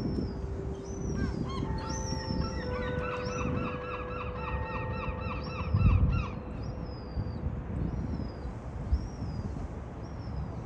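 Birds calling: short high calls repeat about once a second, and about two seconds in a fast run of arched calls starts and lasts a couple of seconds. Underneath is a low rumble that swells briefly around the middle.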